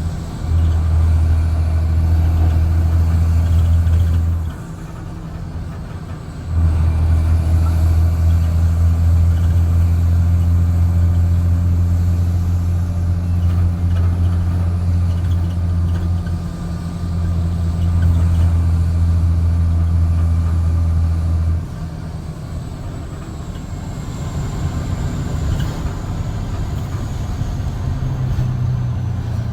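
Straight-piped Cummins C8.3 inline-six diesel in a school bus pulling hard with a loud, deep exhaust drone in three long stretches, falling back briefly between them and easing off after about 22 seconds.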